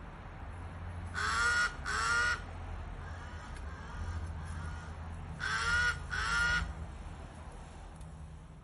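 A bird calling in two pairs of short, harsh calls: two about a second in, then two more some four seconds later, over a steady low background hum.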